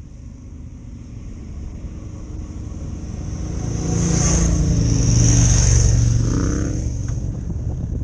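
A road vehicle's engine grows steadily louder over about five seconds, then eases off, as a vehicle approaches and passes or as the engine pulls hard and then backs off.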